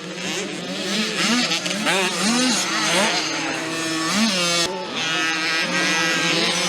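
Several 50cc two-stroke mini motocross bikes racing, their engines revving up and down in overlapping rising and falling whines.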